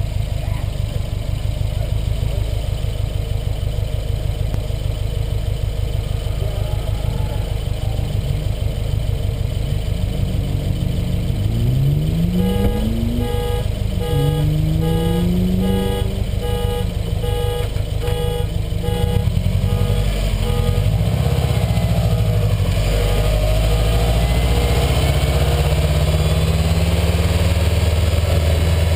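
2008 Subaru Impreza WRX STI's turbocharged flat-four idling with an even low pulse, close up. Partway through, another car's engine rises and falls in pitch as it accelerates, a regular beeping about twice a second goes on for several seconds, and near the end the STI's engine note grows louder and fuller as it pulls forward.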